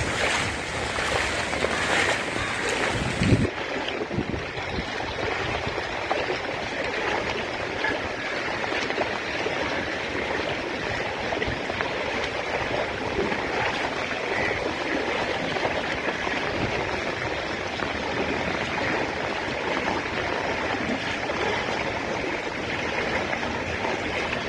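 Steady rush of flowing water. A short knock comes about three and a half seconds in, and the sound changes abruptly there.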